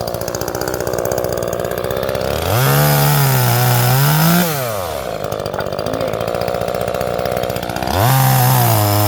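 Two-stroke gas chainsaw idling, then revved up twice for about two seconds each, about two and a half seconds in and again near the end, dropping back to idle each time.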